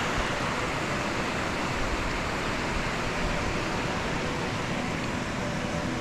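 Steady rush of wind over the microphone of a moving motorcycle, with the engine and road noise faint beneath it.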